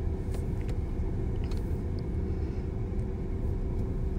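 Freight train cars rolling past: a steady low rumble of wheels on rails, with a few faint clicks.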